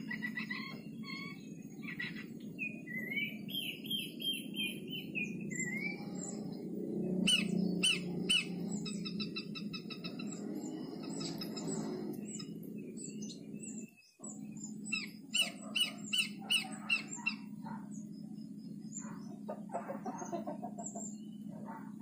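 Small songbirds chirping and calling, with warbled phrases and short rapid runs of repeated notes, over a steady low background hum.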